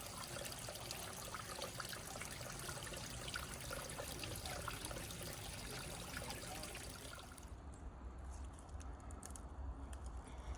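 Creek water trickling and splashing over rocks, a steady rushing noise that fades out about seven seconds in, leaving a low rumble.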